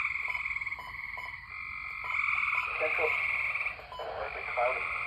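A chorus of tree frogs calling: overlapping pulsed trills, each about a second or more long, following one after another, with a few lower, rougher calls mixed in.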